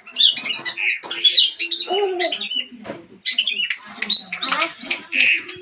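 Long-tailed shrike (pentet) singing a rapid, varied run of chattering chirps and harsh squawky notes, the kind of pentet song used as a lure to set a silent bird singing.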